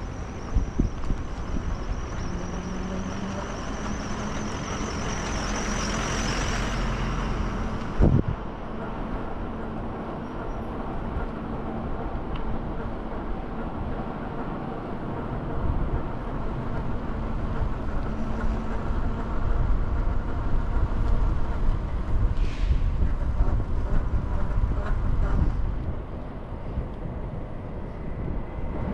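City street traffic heard from a moving scooter: a steady low rumble of passing vehicles, trucks and buses among them. A hiss builds up over several seconds and cuts off with a sharp knock about eight seconds in. A brief hiss comes later.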